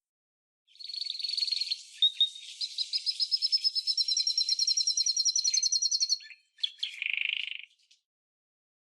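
Canary singing: a long run of high, rapid trills of evenly repeated notes, ending in a short buzzy phrase.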